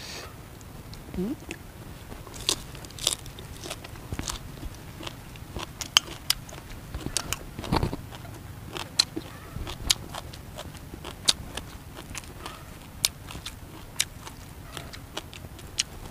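Close-up eating sounds: a man chewing grilled crab prahok, with sharp crunches and clicks at irregular intervals and one louder crunch about eight seconds in.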